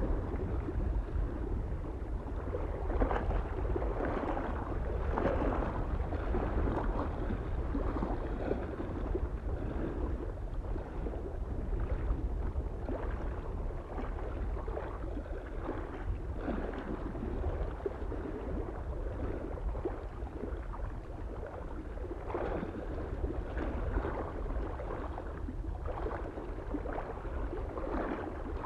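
Small waves lapping and splashing irregularly against a lake shore, over a steady low wind rumble.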